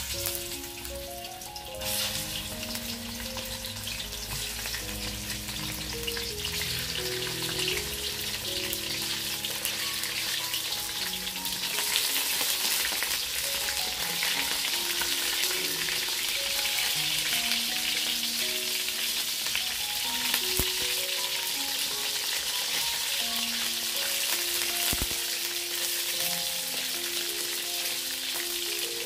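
Fish steaks sizzling as they fry in hot oil in a steel wok. The sizzle picks up about two seconds in and grows louder about twelve seconds in, over soft background music.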